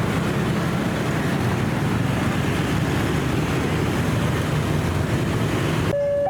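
A train passing close by, a steady loud rumble and rush of wheels on the rails. Near the end it cuts off suddenly, and a steady electronic alarm tone begins.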